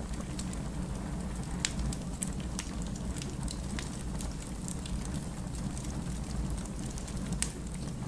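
Burning firewood crackling: scattered sharp pops and snaps over a steady low rumble.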